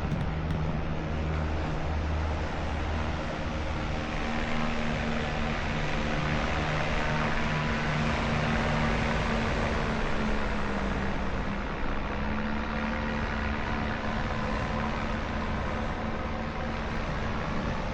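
Motor vehicle running with steady engine and road noise; the engine's pitch steps up about four seconds in and shifts again around eleven seconds.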